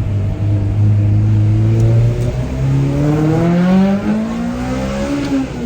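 Vehicle engine revving up: its pitch holds steady for about two seconds, then climbs steadily and drops back near the end.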